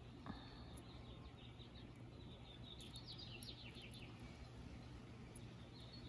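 Faint bird chirping in quick trills, one run sliding down in pitch about three seconds in, over a low steady hum.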